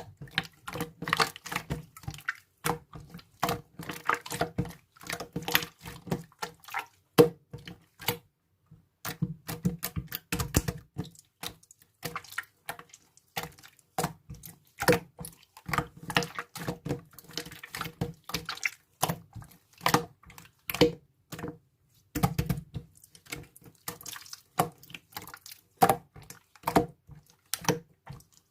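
Slime being squished and kneaded by hand, a dense, irregular run of wet clicks and pops, with a brief pause about eight seconds in.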